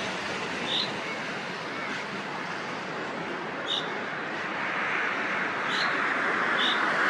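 Short, single high chirps from chaffinches, four in all, over a steady rush of traffic noise that swells toward the end as a vehicle approaches.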